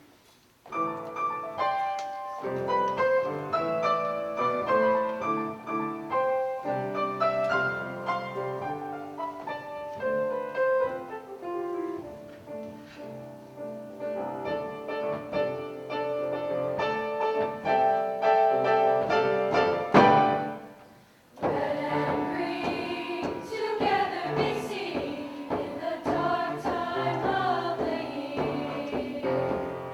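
Women's choir singing held notes. A sharp click comes about twenty seconds in, the music drops away briefly, and then it resumes fuller and brighter.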